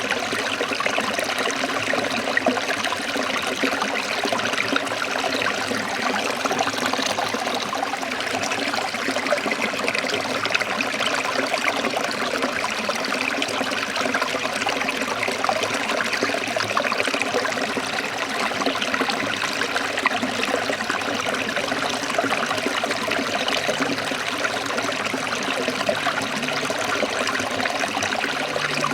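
Forest stream water trickling and splashing steadily.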